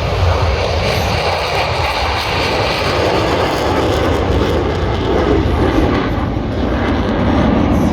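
Military jet aircraft flying past, a loud steady roar of jet engine noise whose tone climbs in pitch midway and then drops again.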